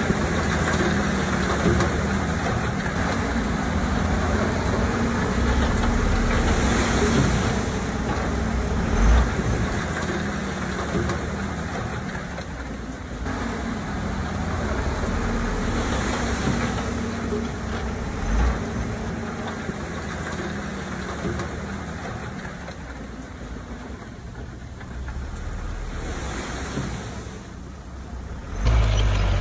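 Diesel engine of heavy earthmoving machinery running under varying load, swelling and easing, with two short low thuds. The sound changes abruptly and gets louder just before the end.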